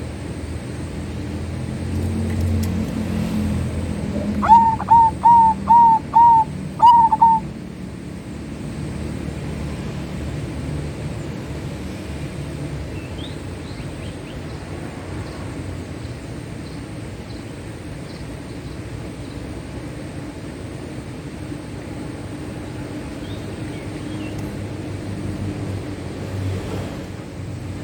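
Zebra dove song: a quick run of five short cooing notes followed by a longer rolling note, about five seconds in. A steady low background rumble runs throughout, with a few faint high chirps later on.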